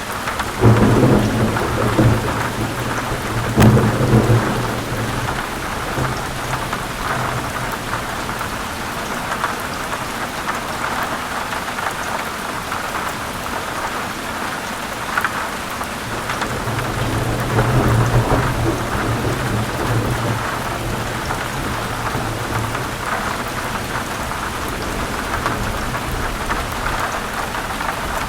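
Heavy rain falling steadily on forest leaves, with rolling thunder. A loud rumble of thunder comes in the first few seconds, and another comes a little past the middle.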